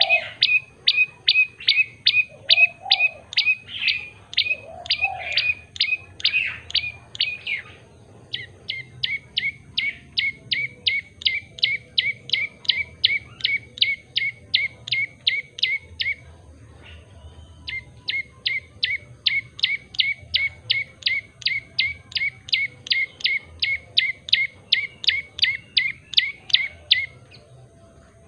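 Prenjak lumut tailorbird singing: long runs of sharp, quickly repeated chirps, about three a second, broken by two short pauses, one about a quarter of the way in and one a little past halfway.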